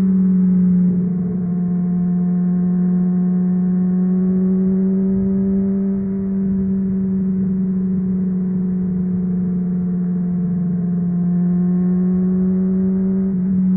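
Honda CBR600RR inline-four running through an aftermarket MIVV Suono exhaust at a steady, fairly high engine speed while cruising. The pitch holds almost level, easing slightly up and down, with a brief change near the end.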